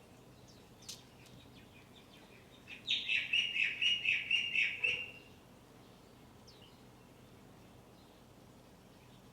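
A Japanese white-eye gives a quick run of about ten high chirps lasting about two seconds, about five a second. It starts about three seconds in, and there is a faint click about a second in.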